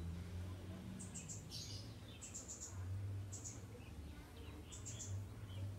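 Birds chirping: short high-pitched notes in quick runs of three or four, repeated about every second, with a few lower calls between, over a low steady hum.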